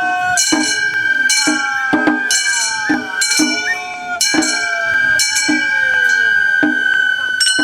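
Gion-bayashi festival music: a high flute holds a long note over repeated ringing strikes of small metal gongs, about one or two a second.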